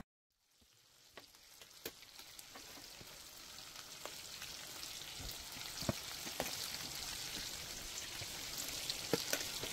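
Food frying in hot oil in a pan: a steady sizzle that fades in over the first few seconds, with a few sharp clicks scattered through it.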